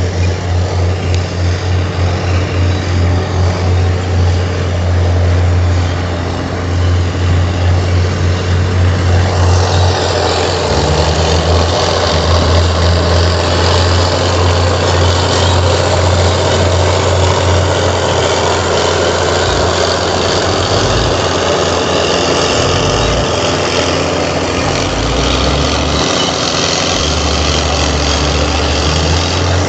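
A bulldozer's heavy diesel engine running, throbbing at first, then growing fuller and steadier about nine seconds in as it works under load.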